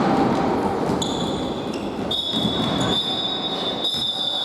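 Echoing sports-hall background during a futsal game, with a steady high-pitched tone coming in about a second in and growing stronger around the middle.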